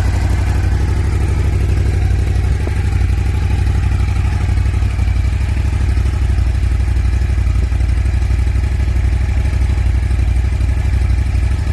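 2019 Ducati Scrambler 1100 Sport's air-cooled 1079 cc L-twin running steadily at idle through its stock exhaust, a deep even rumble with no revving.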